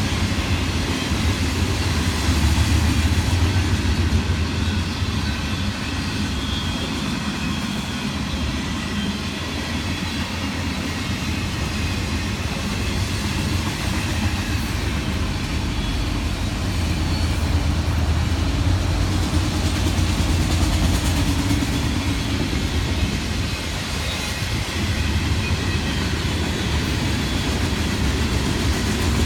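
Train rolling past with a steady low rumble of wheels on rail that stays roughly even throughout.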